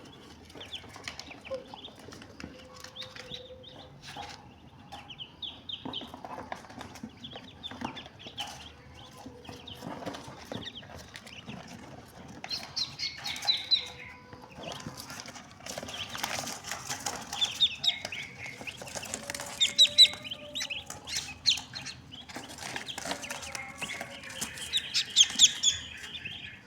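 Muscovy ducks, a drake and a duck, with wing flapping and many short, high repeated calls, getting louder and busier about halfway through.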